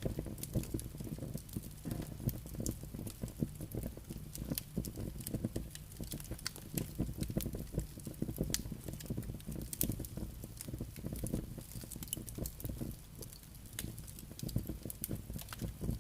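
Campfire crackling, with many sharp pops and snaps scattered irregularly over a steady low rumble of the flames and wind.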